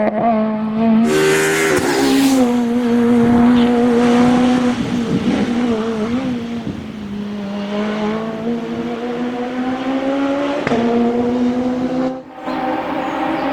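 Peugeot 206 Maxi Super 1600 rally car's naturally aspirated four-cylinder engine at high revs, its pitch holding, dropping and climbing again as the driver lifts and changes gear. A burst of hissing noise comes about a second in, and the sound drops out briefly near the end before the engine returns.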